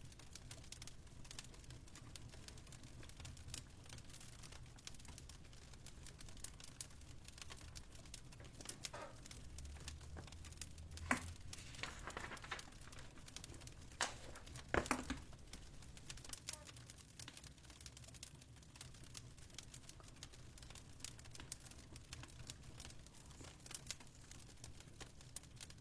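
Faint fireplace crackle: many small scattered pops and snaps over a low steady rumble, with a few louder snaps and a short rustle about halfway through.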